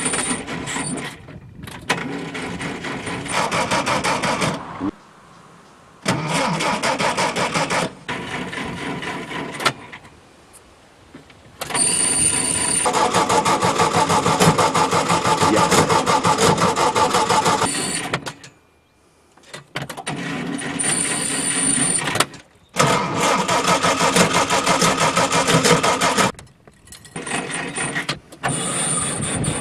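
Vintage car engines, a 1940 Opel Olympia's inline four and a 1952 Volkswagen Beetle's air-cooled flat-four, cranked on their starters, catching and being revved, in a series of short cuts separated by brief quiet gaps.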